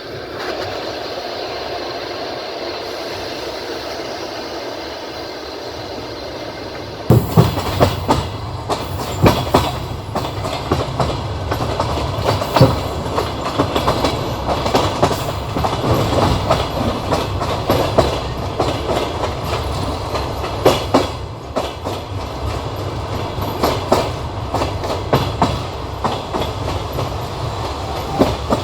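Passenger train wheels running on the rails: a steady rumble that turns suddenly louder about seven seconds in, then a run of irregular clacks and knocks as the wheels pass over rail joints.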